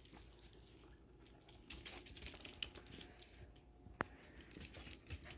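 Near silence, with faint scattered ticks and light rustling and one sharp click about four seconds in.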